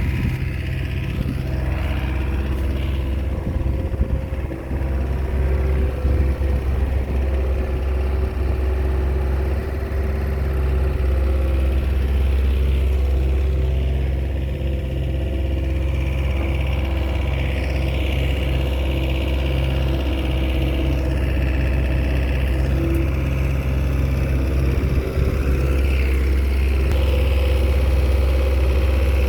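Komatsu bulldozer's diesel engine running steadily, with a deep continuous drone.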